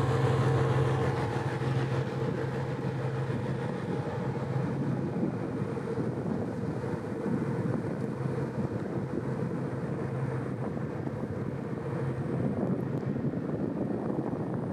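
Ship's engines running with a steady low drone that eases after the first couple of seconds, with wind buffeting the microphone throughout.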